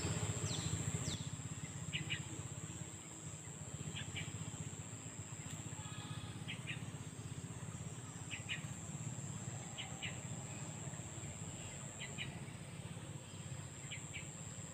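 A bird repeating a short double chirp about every two seconds over a steady high-pitched insect drone, with a low steady rumble underneath.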